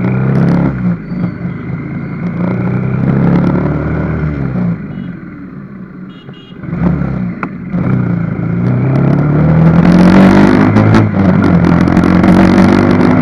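Motorcycle engine running under way, its pitch rising and falling several times as the bike speeds up and slows, with a long rising climb in the last few seconds.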